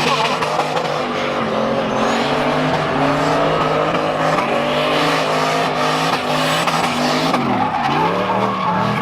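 Drift car engines running at high revs with tyres squealing and skidding through a slide; about eight seconds in the engine pitch drops sharply and climbs again as the driver lifts and gets back on the throttle.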